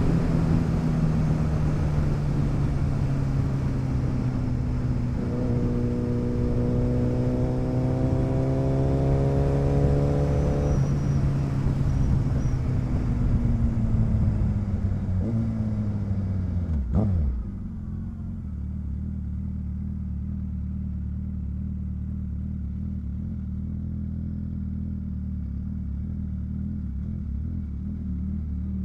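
Motorcycle engine under way with wind rush: the engine note climbs as the bike accelerates, then a little over halfway through the revs drop sharply, the wind noise dies away, and the engine settles into a steady idle.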